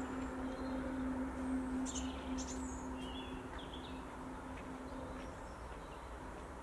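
Wild birds giving a few short, high chirps, clustered about two to three and a half seconds in, over outdoor background noise. A steady low hum runs underneath and stops about five seconds in.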